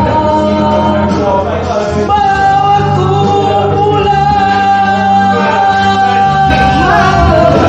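A Malay-language pop ballad with singing over backing instruments. From about two seconds in, the voice holds one long note for several seconds.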